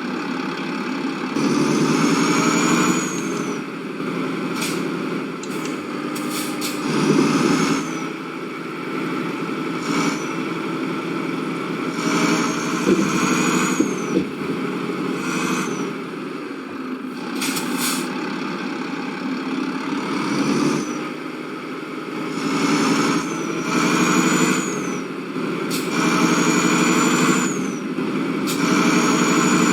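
Vehicle engine running while driving, with a high whistle that rises and falls again and again and a few short knocks.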